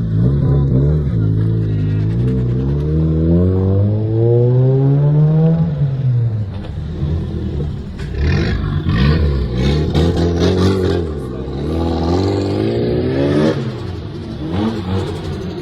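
Car engine accelerating, its pitch rising steadily for about five seconds and then dropping. It is then revved in several short rises and falls in the second half.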